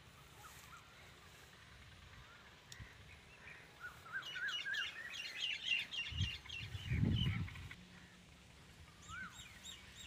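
Small birds chirping outdoors: a quick run of rapid, repeated chirps in the middle, with a few more near the end. A low rumble about six to seven seconds in is the loudest part.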